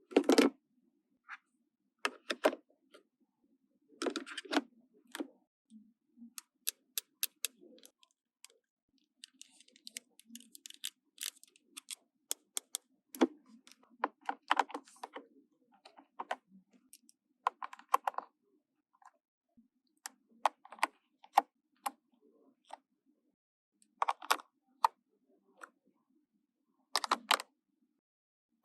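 Small plastic toy pieces being handled, fitted and set down: a scattered run of sharp clicks and taps, some single and some in quick little clusters, with short pauses between.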